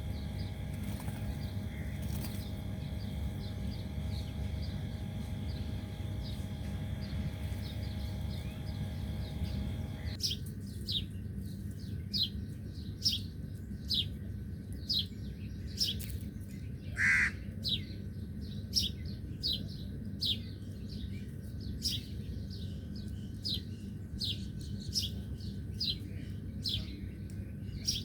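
Birds chirping: faint calls at first, then, from about ten seconds in, a bird repeating short, high, falling chirps about once or twice a second, with one lower, louder call partway through. A steady low rumble runs underneath.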